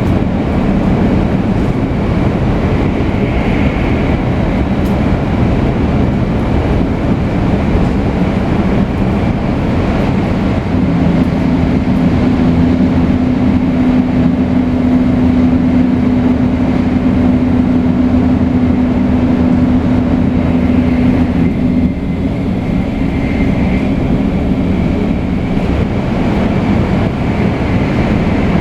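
A Shinkansen 500 series train running at speed between stations, its Toshiba GTO-VVVF traction drive and wheels on rail making a steady running noise. A steady hum rises out of the noise about a third of the way in and drops away about two thirds through.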